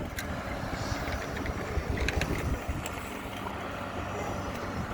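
A steady engine hum under a low, gusty rumble, with a few light metallic clinks about two seconds in.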